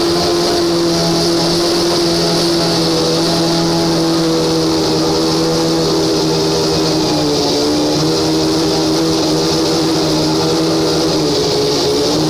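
Honda V12 engine of a McLaren MP4/6 Formula One car running at fairly steady revs, its pitch dipping slightly and picking up again a couple of times.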